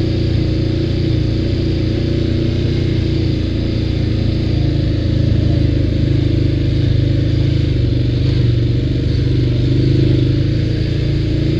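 ATV engine running steadily while riding, its pitch wavering slightly with small changes in throttle.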